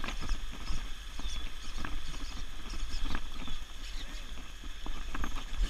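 Low wind rumble on the microphone with a few scattered clicks and knocks.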